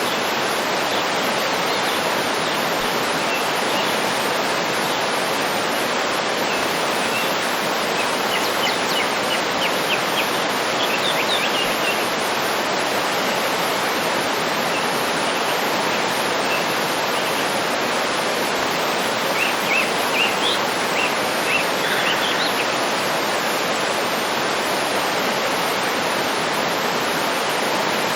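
Waterfall rushing in a steady, even roar of water, with small birds chirping in two short bouts, about a third of the way in and again about two-thirds through.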